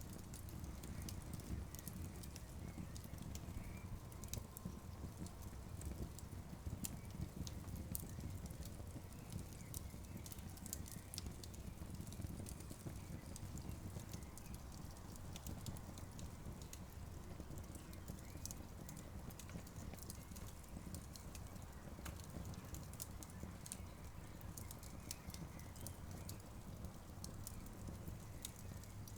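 Campfire crackling: frequent, irregular sharp pops and snaps of burning wood over a steady low rumble.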